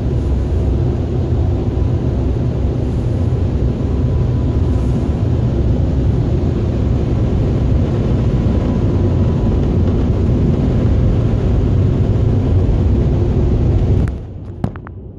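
Automatic car wash machinery heard from inside the car: a loud, steady low rumble that drops away sharply near the end.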